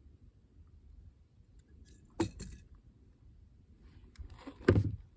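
Metal fishing tackle clinking and rattling as it is handled, in two short clatters about two and a half seconds apart; the second is louder, with a dull knock.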